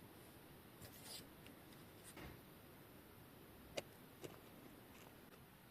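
Near silence: faint room tone with a few soft rustles and small clicks, the sharpest click about four seconds in and a second one shortly after.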